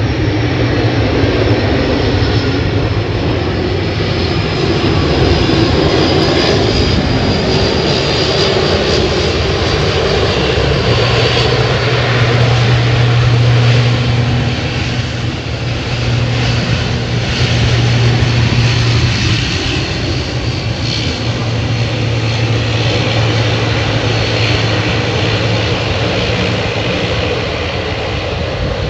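Airliner engines running loud and steady at close range, with a high whine that slowly falls in pitch over the first ten seconds or so.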